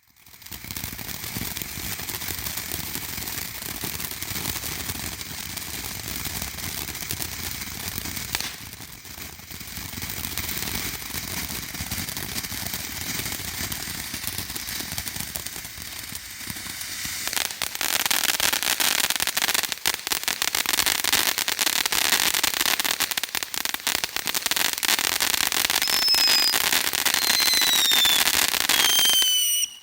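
Dominator Hot Lips firework fountain spraying with dense, continuous crackle. The crackle dips briefly around a third of the way in, then grows louder and more intense about halfway through. Near the end a few short falling whistles sound over it before it cuts off suddenly.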